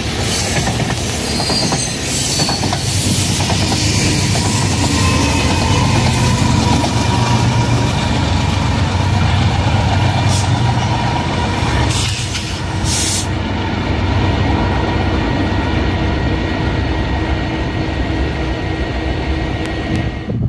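BNSF freight trains rolling past at close range, with the steady rumble of steel wheels on the rails: first covered hopper cars, then double-stack intermodal container cars.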